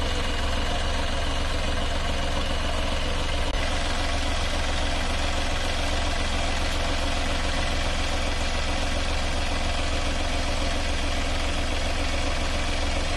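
Massey Ferguson 5245 DI tractor's diesel engine running steadily at an even speed, with no revving.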